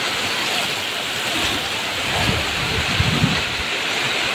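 Heavy rain pouring down, a steady hiss, with a few low rumbles about two to three seconds in.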